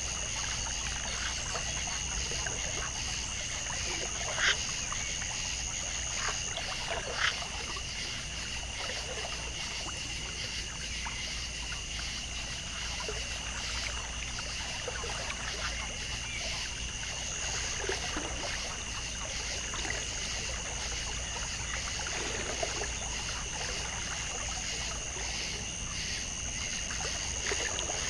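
Outdoor nature ambience: a steady high-pitched drone over a trickle of water, with two short sharp clicks a few seconds in.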